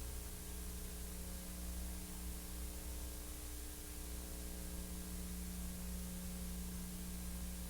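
Steady electrical mains hum with a high hiss, the noise floor of a transfer of silent film with no soundtrack.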